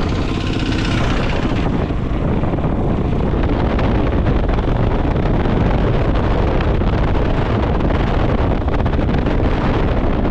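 Wind noise buffeting the microphone on a moving motorcycle, with the motorcycle's engine running steadily underneath.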